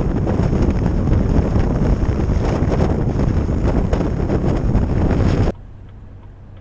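Heavy wind buffeting the microphone with road rumble as the truck drives at speed. About five and a half seconds in it cuts off abruptly, leaving a much quieter low steady hum.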